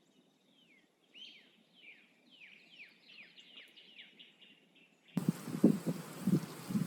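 A songbird sings a series of about a dozen down-slurred whistled notes that come faster and faster. About five seconds in, the sound cuts to wind buffeting the microphone with low, irregular thumps.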